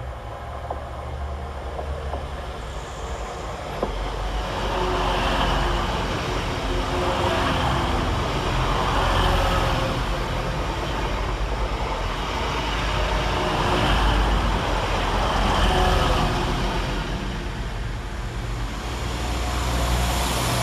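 Two coupled Class 185 diesel multiple units passing through the station: the rumble of the engines and running gear grows louder about four seconds in and holds, swelling and easing, with a faint steady hum under it.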